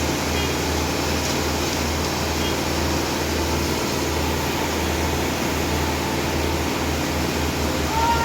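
Steady machine drone with a strong, constant low hum and an even wash of noise above it, unchanging throughout.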